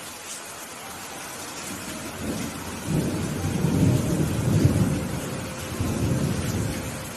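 Steady rain with a roll of thunder that builds about two seconds in, rumbles loudest around the middle, and dies away near the end.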